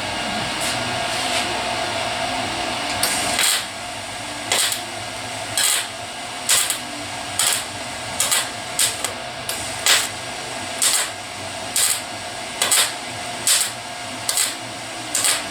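MIG welder stitch-welding sheet metal in a rust repair, in short crackling bursts about once a second, over a steady hum.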